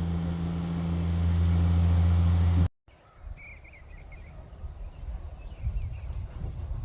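A steady low engine hum that grows slightly louder, then stops abruptly at a cut. After that, wind rumbles on the microphone and a bird gives a few short chirps, once about a second after the cut and again a couple of seconds later.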